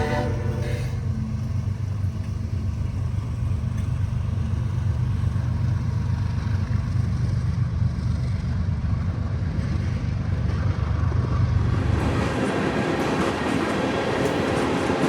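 Diesel freight locomotives passing close by with a deep, steady engine rumble, the end of their horn dying away in the first second. About twelve seconds in, the engine rumble gives way to the rushing, rolling noise of the freight cars going by.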